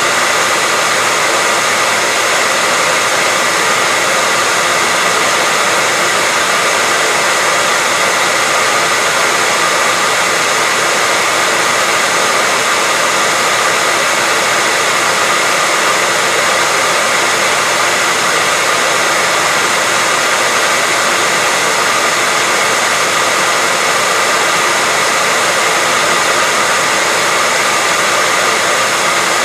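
Hair dryer running continuously at a constant speed: a steady, even rush of air with a faint motor whine.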